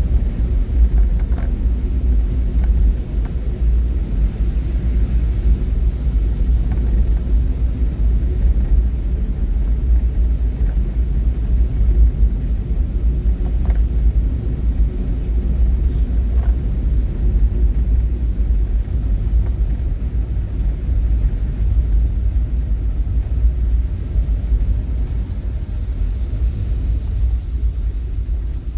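Steady, loud low rumble of a moving vehicle, with a few faint clicks.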